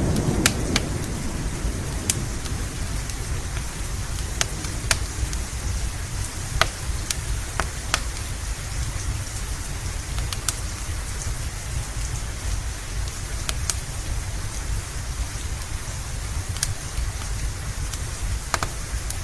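Steady rain with a crackling wood fire: sharp isolated pops every second or two over the hiss. A low thunder rumble dies away in the first second or two.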